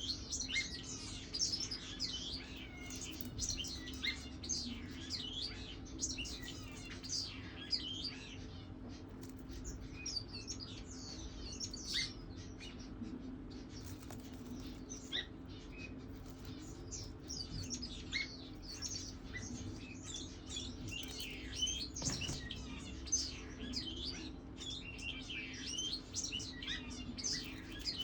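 Young pigeon squabs peeping: a dense run of rapid, high-pitched chirps, over a steady low hum.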